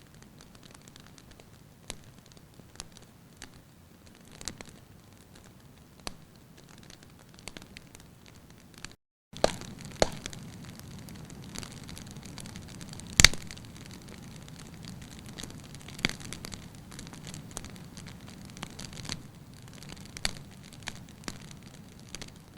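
Wood fire crackling in a fireplace, with sharp pops at irregular intervals over a soft hiss of flames. The sound cuts out briefly about nine seconds in; after that the low rumble of the fire is stronger, and the loudest pop comes about thirteen seconds in.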